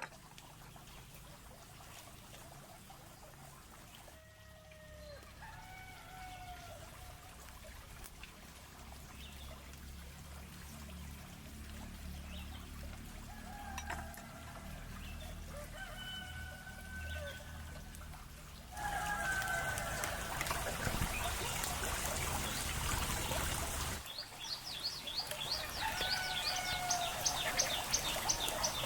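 Roosters crowing several times in the background, each crow drawn out over a second or two. A louder stretch of running water comes in about two-thirds of the way through, and a quick run of high bird chirps follows near the end.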